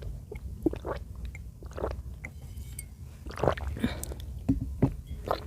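Close-miked eating of chicken in cream sauce: soft wet chewing with irregular mouth clicks and smacks.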